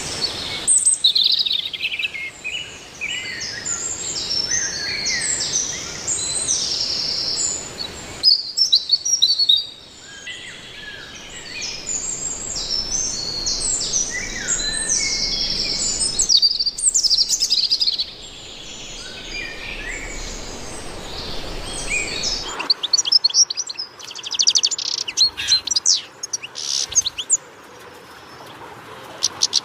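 Many birds chirping and calling, short overlapping chirps and trills over a faint background hiss; the sound changes abruptly a few times, as between joined clips.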